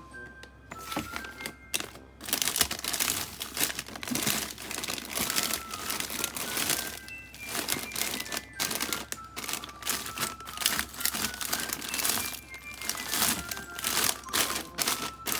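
Plastic packaging crinkling and rustling in rapid, irregular crackles as meat is handled and wrapped for freezing, over light background music with a simple high melody.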